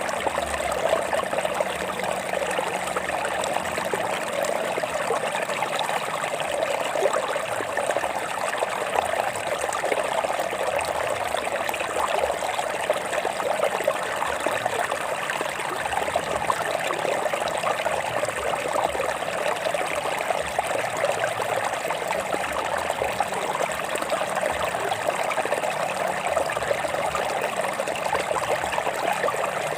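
A stream of water running steadily over rocks, trickling and splashing without a break.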